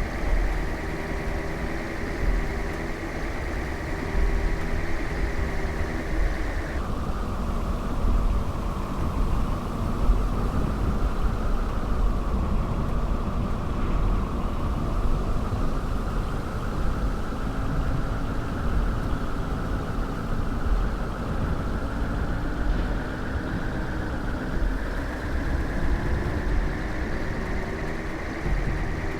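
Car engine and road noise while driving, a steady rumble with a whine whose pitch drops suddenly about seven seconds in, then climbs slowly again.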